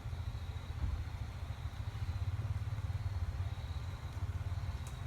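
A Jeep engine running at low speed with a steady, pulsing low rumble, as a Jeep crawls in low range down a steep trail.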